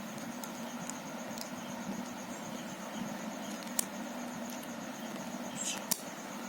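Two sharp plastic clicks of Rubik's cube pieces, about four and six seconds in, over a steady hiss and a continuous high-pitched pulsing chirp.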